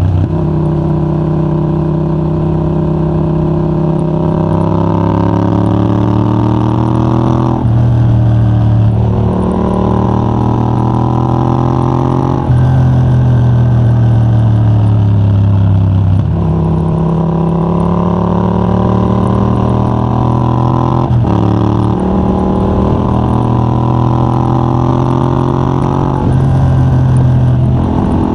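Yamaha MT-07's 689 cc parallel-twin engine through a de-catted Mivv GP Pro titanium exhaust with a dB killer, pulling hard through the gears. The revs climb and drop sharply at several gear changes, and ease off for a few seconds midway before climbing again.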